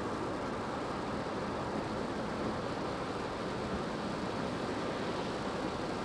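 Steady road and tyre rush heard from inside a moving car's cabin on a wet road in the rain, an even hiss with no engine note standing out.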